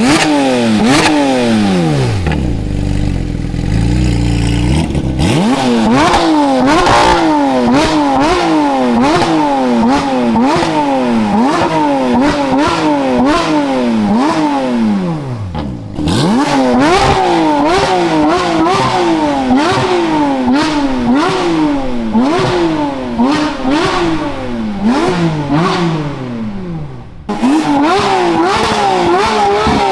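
Porsche 992 GT3 RS's 4.0-litre naturally aspirated flat-six, breathing through a titanium valved race exhaust, revved again and again in quick throttle blips, each rising then falling in pitch, with pops and crackles between blips. It drops to a low idle briefly a few seconds in, and the revving pauses briefly about halfway and near the end.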